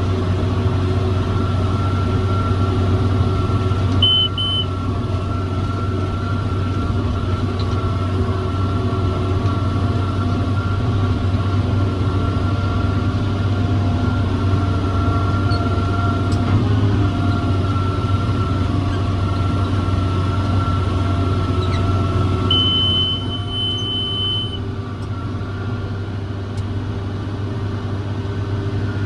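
John Deere 7410 tractor's diesel engine running steadily under load, pulling a John Deere 468 round baler. A short double electronic beep sounds about four seconds in, and a longer beep of about two seconds comes near the end, after which the engine note drops slightly.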